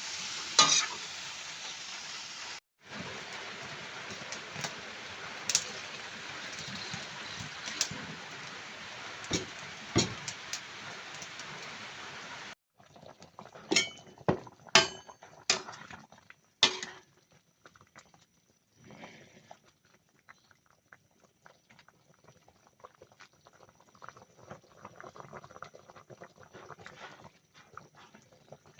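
Fish frying in a pan of oil: a steady sizzle with occasional sharp knocks and scrapes of stirring. About twelve seconds in, the sizzle cuts off abruptly, leaving much quieter scattered clicks and knocks with a faint high whine.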